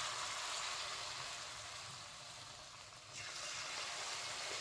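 Spoonfuls of pakora batter frying in hot oil in a wok: the sizzle is loud at first and slowly dies down, then swells again about three seconds in as another spoonful drops in.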